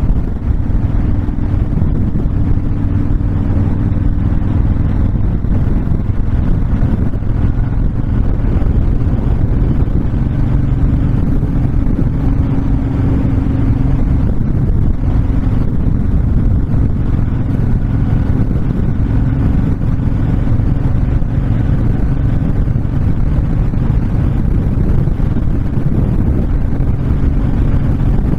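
Honda VTX1300 cruiser's V-twin engine running steadily at cruising speed, with heavy wind rush on the microphone from riding without a windshield.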